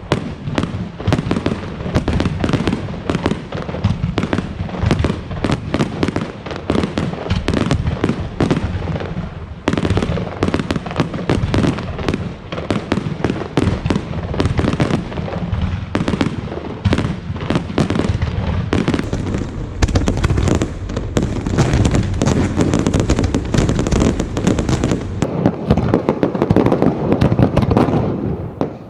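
Fireworks display: a dense, continuous barrage of loud bangs and crackles from bursting shells, many per second, with a heavier, rumbling stretch in the second half.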